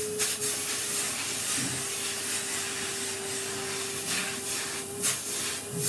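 Vacuum cleaner running with a steady whine and hiss, sucking up sanding dust, with a few short scraping strokes.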